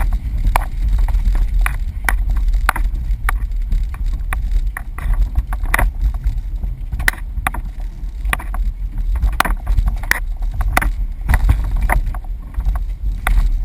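Jeep crawling an off-road trail: a steady low engine rumble with many irregular sharp knocks and rattles as the vehicle jolts over rough ground.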